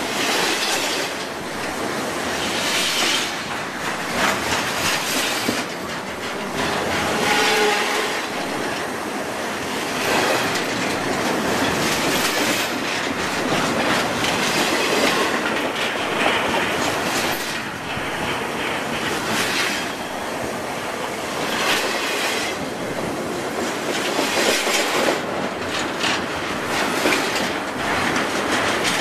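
Container freight train's cars rolling past at rail level: a steady rush of steel wheels on rail, broken by irregular clacks as the wheelsets pass.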